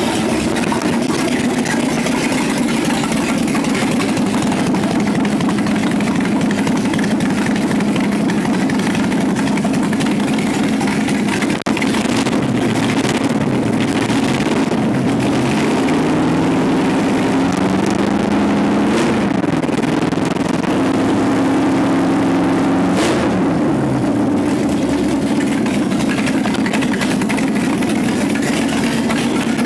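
Rebuilt Chevrolet 327 small-block V8 running on an engine test stand, idling steadily, with the revs raised and let back down a couple of times in the middle. To the builder it sounds like it could use a little more ignition timing.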